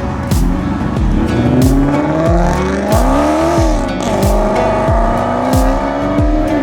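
A sports car engine accelerating hard, its pitch climbing, falling back about three and a half seconds in at a gear change, then climbing again. Background music with a heavy steady beat plays over it.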